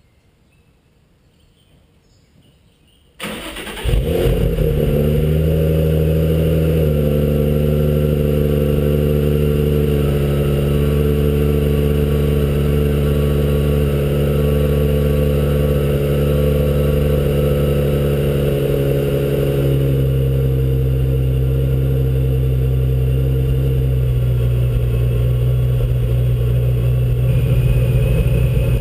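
Supercharged 2003 Nissan 350Z's 3.5-litre V6 with Megan Racing headers, Kinetix high-flow cats and an HKS Hi-Power catback exhaust, starting up about three seconds in and then idling. The idle note steps down a little twice as the engine settles.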